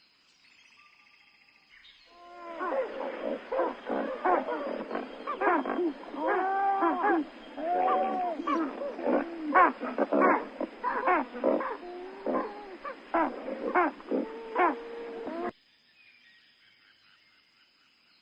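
Pelicans calling: a dense run of short, grunting, moaning calls whose pitch arches up and down, starting about two seconds in and cutting off abruptly near the end.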